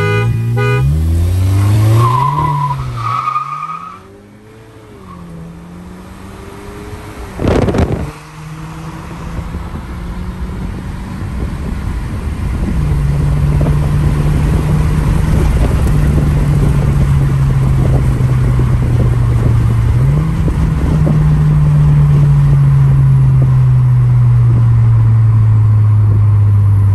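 Race start: a short car horn honk, then cars accelerating hard, engine note rising and falling, heard from inside the chasing car, the MK7 Volkswagen GTI. A brief loud whoosh comes about eight seconds in. After that the engine drones steadily, stepping up in pitch about twenty seconds in and then slowly falling.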